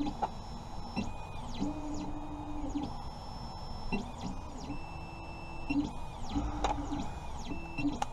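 Electronic device giving a repeating pattern of beeps: steady low and high tones broken up by quickly falling sweeps, over and over.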